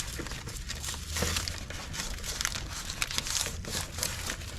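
Irregular crinkling and rustling: a run of short, scratchy noises of handling, over a low rumble.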